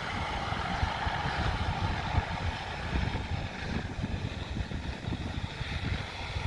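Steady, moderate jet airliner noise from a Boeing 737 MAX on its landing approach, heard as a constant hiss over an uneven low rumble.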